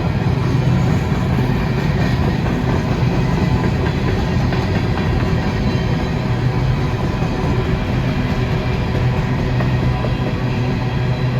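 Freight train running past, with a steady low hum of diesel locomotive engines over the noise of wheels on the rails.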